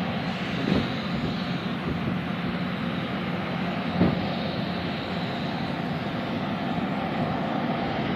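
Loram maintenance-of-way train's diesel engines running with a steady drone as the train moves along the track, with two sharp knocks, one under a second in and one about four seconds in.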